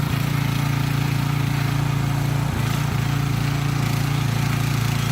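Single-cylinder 170 petrol engine of a mini tiller running steadily while tilling hard, stony soil, with a slight waver about halfway through.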